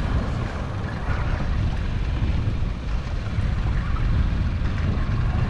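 Steady low rumble of wind and open-water boat noise on a fishing boat offshore, with no distinct events standing out.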